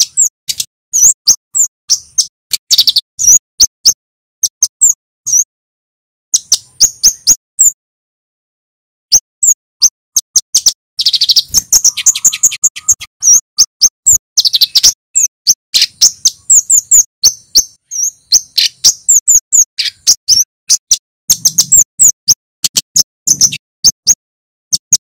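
Male kemade flowerpecker singing: rapid strings of sharp, high, clicking chirps in bursts, with short pauses between them, the longest about a second before the middle.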